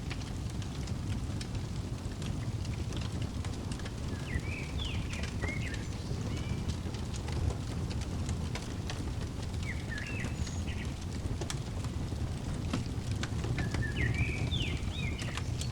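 Crackling fire: a steady low rumble with scattered sharp pops and snaps. A bird chirps in short quick phrases three times over it.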